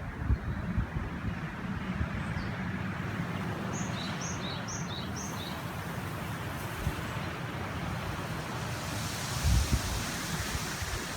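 A river rushing steadily, with a small bird giving four quick high two-note chirps about four seconds in. Gusts of wind buffet the microphone with a low rumble near the end.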